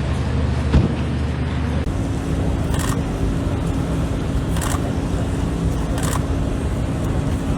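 Steady outdoor background noise, broken three times by short bursts of rapid camera-shutter clicks.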